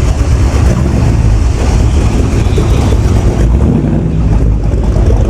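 Car engine running loudly and steadily, mostly a low-pitched sound.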